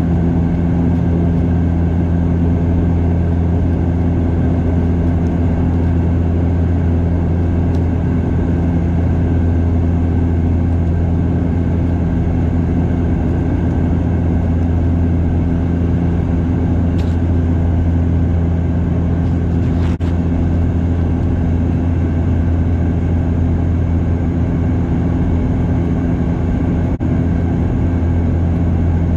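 Bombardier DHC8-Q400 turboprop cabin in flight: the steady drone of the engines and six-blade propellers, a loud low hum with several steady tones over a rushing noise.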